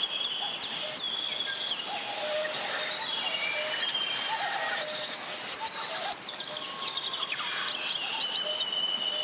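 Mountain stream flowing steadily, with several birds whistling and chirping over it throughout.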